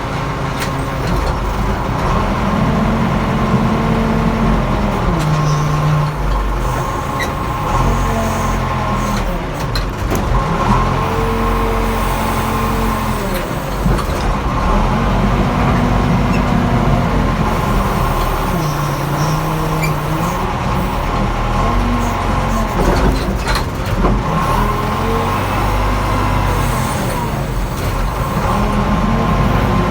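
Backhoe's diesel engine running under load, its pitch rising and falling every few seconds as it works, with a steady high whine over it.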